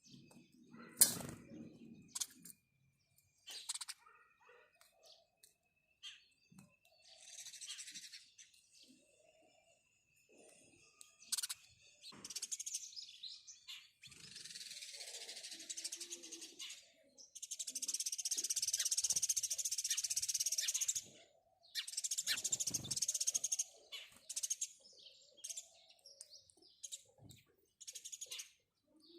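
House sparrows chirping in short scattered calls. A low thump comes about a second in, and several dense hissing stretches, each two to four seconds long, fill the middle and later part.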